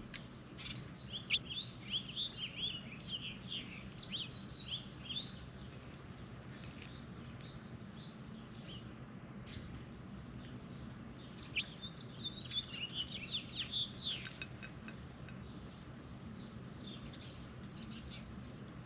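A songbird calling in two rapid runs of short, high chirps, one about a second in and another past the middle, over a faint steady low hum.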